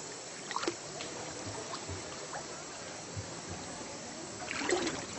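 Steady rush of flowing river water, with a couple of brief louder sounds about half a second in and again near the end.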